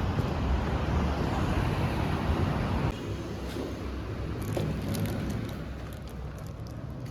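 Steady rumble of vehicle and road noise that drops abruptly in level about three seconds in, with a few faint ticks afterwards.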